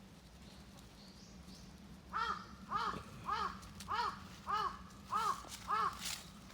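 An animal giving seven short, evenly spaced calls, each rising and falling in pitch, starting about two seconds in.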